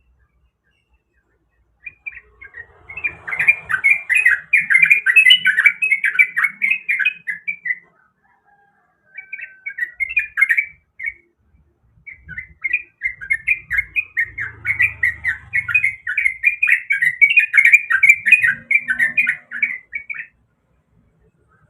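Yellow-vented bulbul (trucukan) singing: a fast, bubbly chatter of short notes in three phrases, a long one starting about two seconds in, a short one near the middle, and another long one through most of the second half.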